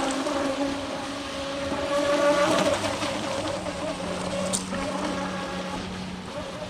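Brushless electric motor of an RC speed boat running fast on a 3S battery: a steady pitched whine that shifts in pitch and swells and fades as the boat runs across the water.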